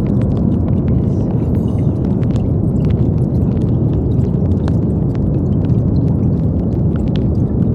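Steady brown noise: an even, deep hiss with most of its weight in the low end, unchanging throughout.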